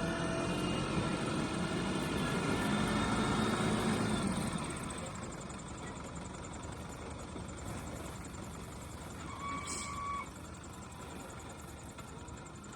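A motor vehicle passing, its rumble swelling for the first few seconds and then fading into a steady background. A short pitched call sounds once near the end.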